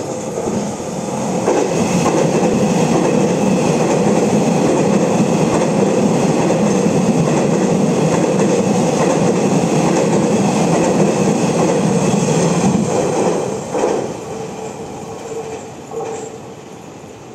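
Taiwan Railway passenger train passing on the tracks: wheel noise and clickety-clack build up over the first couple of seconds, hold loud for about ten seconds, then fade as the train goes by.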